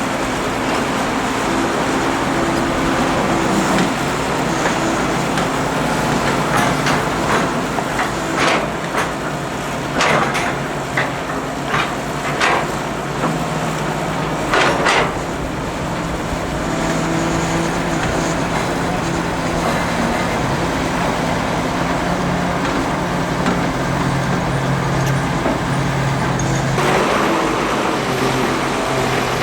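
Hydraulic excavator's diesel engine running steadily, its low note strengthening past the middle as it works harder. Around the middle comes a run of short, sharp metallic sounds from the machine at work.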